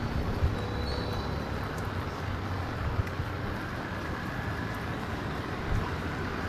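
Steady street ambience: a low rumble of road traffic with a constant hiss.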